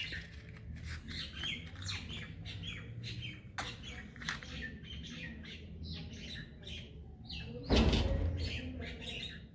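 Small birds chirping over and over. About eight seconds in, a loud rushing burst that fades over about a second.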